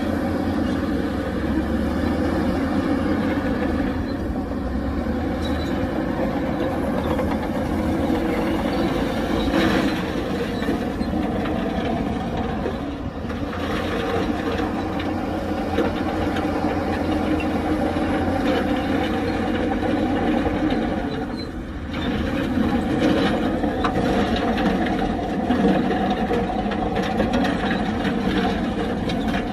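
Heavy diesel earthmoving machinery running steadily, its engine note holding throughout and easing off briefly about 13 seconds in and again about 22 seconds in.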